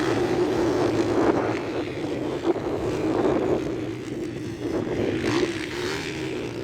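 Motocross motorcycle engines of the 125–160 cc class racing, their pitch rising and falling as the riders work the throttle.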